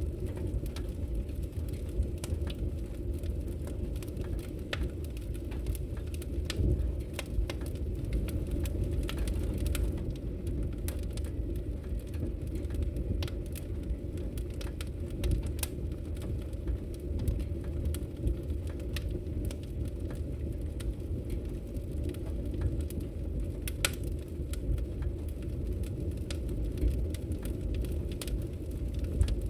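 Wood logs burning in a fireplace: scattered sharp crackles and pops over a steady low rumble.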